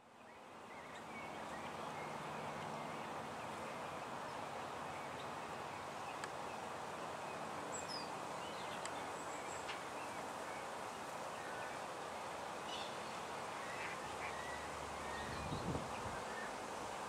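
Outdoor ambience: a steady hiss with scattered short, high bird calls. A low thump comes near the end.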